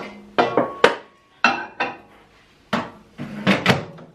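Kitchen clatter: about ten sharp knocks and clinks of crockery and utensils being handled and set down, some with a brief ring.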